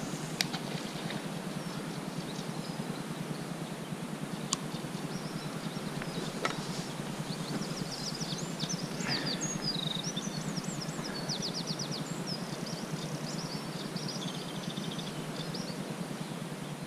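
Small birds singing, with quick high chirps and a fast trill through the middle stretch, over a steady low outdoor noise. A few sharp single clicks come before the song starts.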